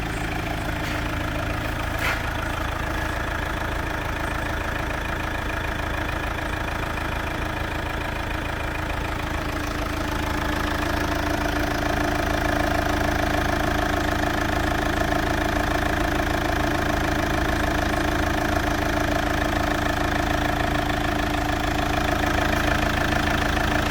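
Engine running steadily on test; about ten seconds in it gets somewhat louder and a higher-pitched tone joins. A single sharp click sounds about two seconds in.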